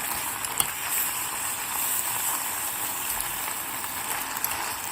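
Food sizzling in hot oil in a cooking pot: a steady hiss with a few faint clicks.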